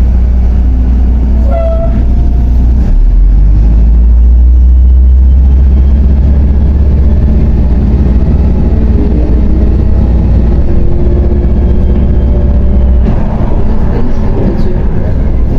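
A MAZ 105.065 articulated city bus in motion, heard from on board: a loud, steady low drone of engine and road noise that shifts lower about three seconds in and changes again about thirteen seconds in, as the engine load or gear changes.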